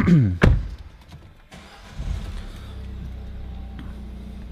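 A short falling-pitched sound and a sharp thump in the first half second. About two seconds in, the 2011 Peugeot 508 e-HDi's 1.6-litre four-cylinder turbo diesel starts and settles into a steady idle.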